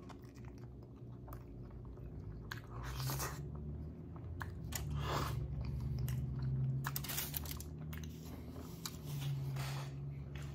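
A man biting into and chewing a mouthful of chicken burrito.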